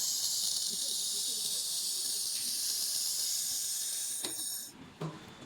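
Handheld 2 kW fiber laser welder running a weld on steel, a steady high-pitched hiss that cuts off abruptly about four and a half seconds in, with a click or two around the stop.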